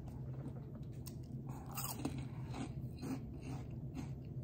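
A person biting into and chewing a Chester's Flamin' Hot Fries puffed corn snack, a series of soft crunches. The fries are barely crunchy and melt in the mouth, so the crunch is light.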